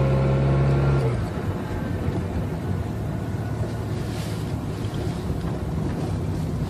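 Car engine running cold, heard from inside the cabin: a strong low engine note for about a second, then it drops abruptly to a quieter, steady idle hum.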